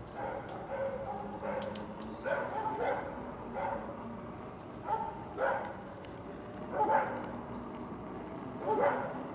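A dog making short yips and barks, about ten spaced calls over several seconds, the loudest in the second half, over a faint steady hum.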